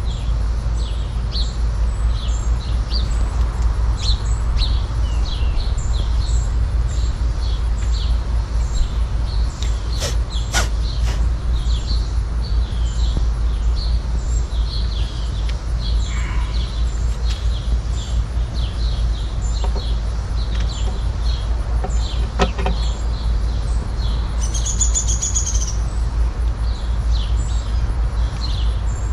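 Small birds chirping over and over, short high calls, over a steady low rumble. There are a few sharp clicks, and a brief clear whistled note near the end.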